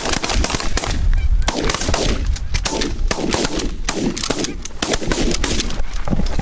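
Rapid volley of shotgun fire from several hunters, many shots close together and overlapping, with goose honks between the shots.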